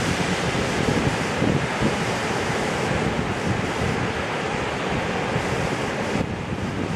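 Ocean surf washing and breaking, with wind buffeting the microphone in irregular low gusts.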